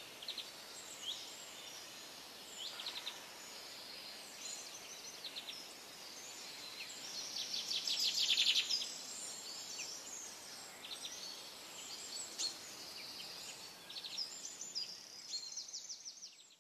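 Small birds chirping, with many short high calls and trills. A fast rattling trill about eight seconds in is the loudest.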